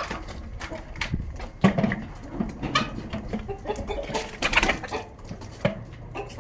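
Chickens clucking in short, irregular calls, mixed with scattered clicks and knocks.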